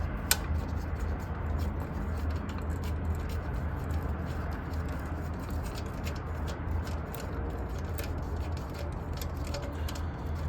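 Scattered light clicks and ticks of a wrench and bolts being worked loose, the sharpest about a third of a second in, over a steady low hum.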